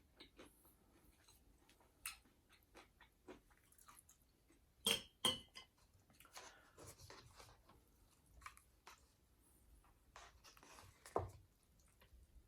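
A person chewing food quietly with small wet mouth clicks, while eating noodles and dumplings. Two sharp clicks come about five seconds in.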